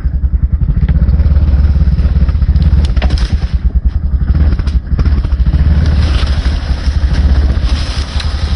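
Honda Recon 250 ATV's single-cylinder four-stroke engine running under load as it backs up in reverse, a steady pulsing throb. A few sharp cracks and scrapes near the middle, from brush and sticks against the machine.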